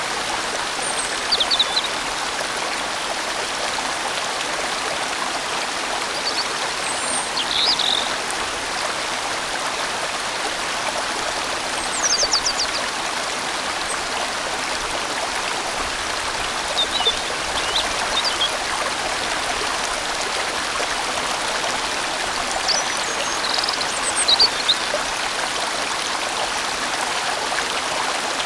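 A large valley stream flowing steadily in a constant rush, with brief high chirps breaking through several times.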